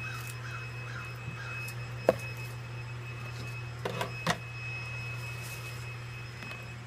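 A steady low electrical hum with a faint high whine, broken by sharp clicks or knocks: a single loud one about two seconds in and three close together around four seconds.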